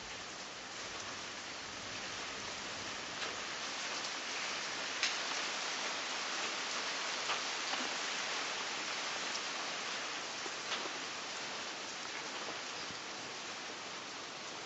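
Steady rain falling, with a few sharper drips landing close by.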